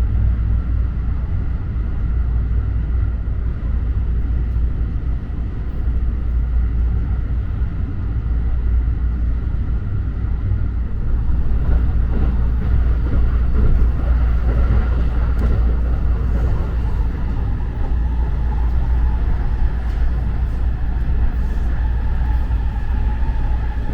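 JR Special Rapid electric commuter train running: a steady low rumble of wheels on rail, with a faint steady whine above it.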